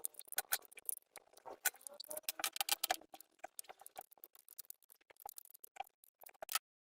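Irregular clicking and rattling of small parts and tools being handled during the generator teardown, with the sound cutting off abruptly near the end.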